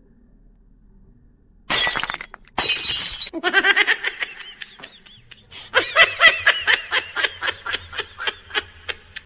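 A crash, like something falling and breaking, about two seconds in. It is followed by high-pitched laughter in quick short bursts, about four a second, which stops shortly before the end.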